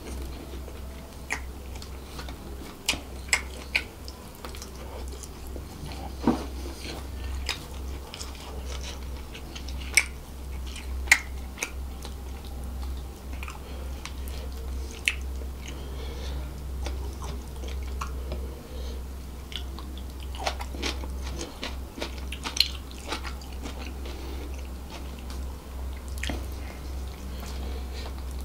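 Close-miked chewing and biting as a man eats fried rice by hand and bites into spicy devil chicken: wet mouth sounds with scattered sharp clicks and crunches. A steady low hum runs underneath.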